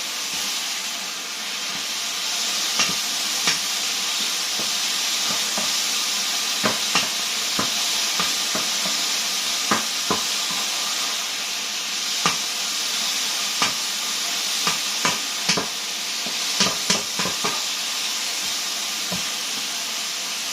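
Meat stir-frying in a hot wok: a steady sizzle, with the spatula clicking and scraping against the wok every second or so.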